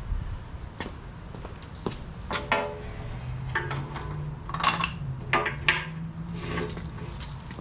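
Steel parts clanking and clinking as they are handled and fitted, several knocks with short metallic ringing, over a low steady hum.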